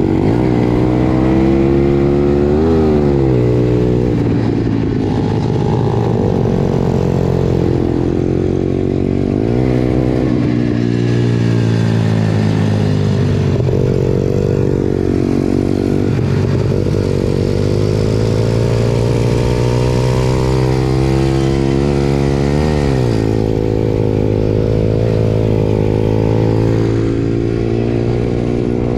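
Pit bike engine running, its pitch rising and falling several times with the throttle, with a few quick sharp revs up and back down.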